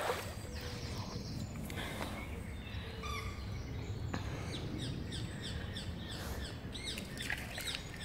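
Songbirds singing in the riverside trees: many short, high chirps and trills, over a low steady background rumble.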